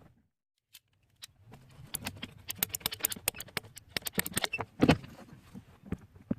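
Rapid metallic clicks and clinks of a PEX pipe repair being worked on by hand, with a louder knock about five seconds in.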